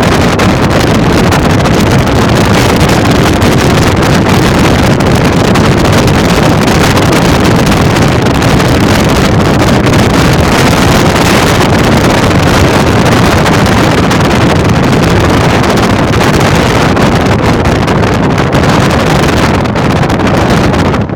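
Loud, steady rushing noise of wind blasting the microphone.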